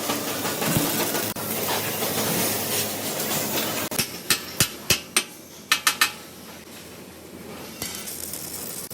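Metal struck or knocked together in a workshop: a dense clatter at first, then a quick run of about eight sharp metallic knocks a little past halfway, and then quieter background noise.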